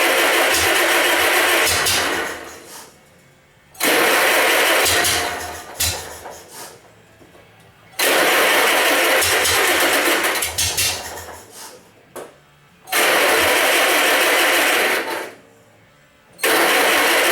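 Wisconsin VH4D air-cooled engine on a 1947 Lincoln SA-200 welder being cranked over by its starter in repeated start attempts. There are five cranks of about two to three seconds each; each starts abruptly and fades out as the engine fails to keep running on the gas just fed to it.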